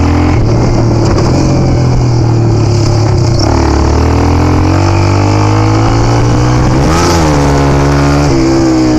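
A vehicle engine running, its pitch climbing over a few seconds to a peak about seven seconds in, then dropping back.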